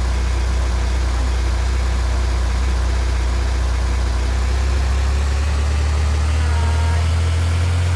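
Vehicle engine idling with a steady low hum, its note shifting slightly higher about five and a half seconds in.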